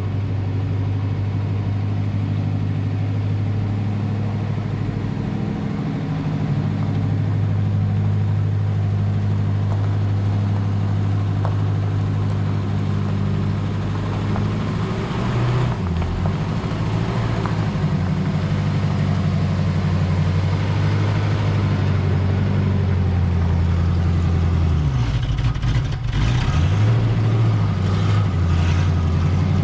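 Car engine running at low speed, a steady low note that shifts in pitch a few times and briefly dips about 25 seconds in.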